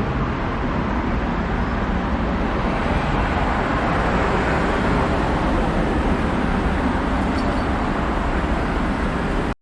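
Steady road traffic noise, an even rush of passing vehicles, that cuts off suddenly near the end.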